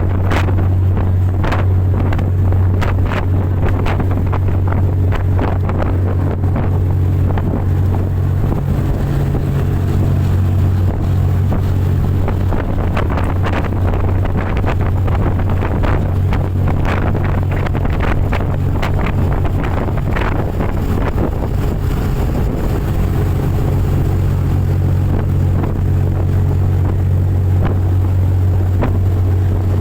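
Fast motorboat running at high speed, its engine a steady low drone, with wind buffeting the microphone in irregular gusts.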